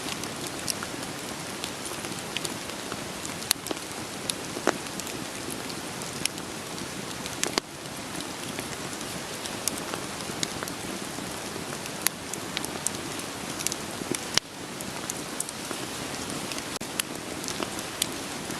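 Steady rain hiss mixed with a wood fire crackling: irregular sharp pops and snaps of burning firewood scattered over the even patter of rain. The level dips briefly twice.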